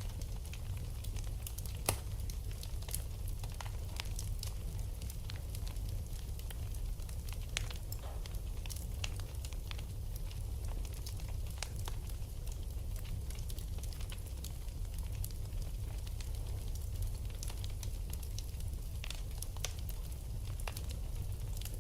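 Wood fire burning in a fireplace, with irregular sharp crackles and pops over a steady low rumble; the loudest pop comes about two seconds in.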